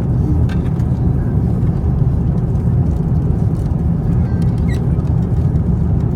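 Airbus A350-900 cabin noise in cruise: a steady low rumble of airflow and engines, with a few faint clicks.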